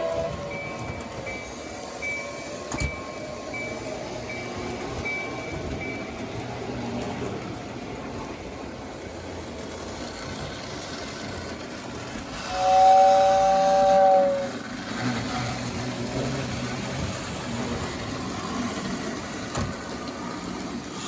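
Model trains running on a layout, a steady rolling rumble on the track. About halfway through, a two-note train whistle sounds for about two seconds, the loudest sound here. Faint, evenly repeated high beeps sound in the first few seconds.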